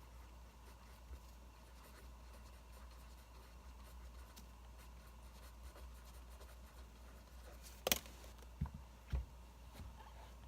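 Pen writing on paper, with a faint crackling firewood track behind it; a sharp crack about eight seconds in and two low knocks just after.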